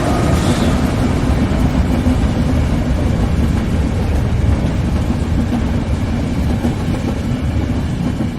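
Train passing close by: a steady heavy rumble of wheels and rail noise, with the tail of its horn dying away at the very start. The rumble eases slightly toward the end.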